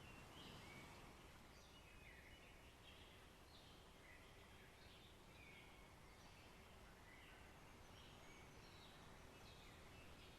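Faint wild birdsong: many short chirps and warbling phrases from several birds, over a soft steady hiss of natural background noise.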